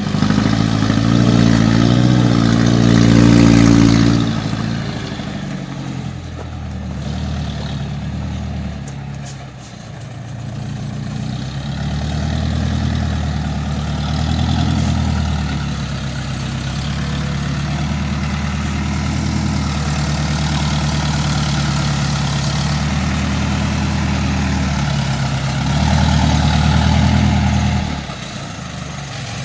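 Isuzu NPR 115 six-wheel truck's diesel engine running on the move, its engine speed rising and falling in steps as it pulls away and drops back. The note falls off sharply about four seconds in, and again near the end.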